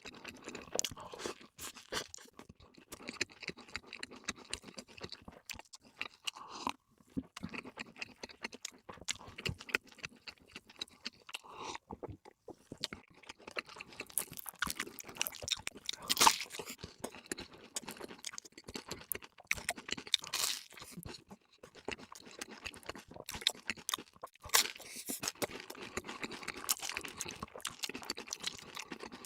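Close-miked eating: wet chewing and crisp crunching of fast food, with a few louder crunchy bites about midway and near the end.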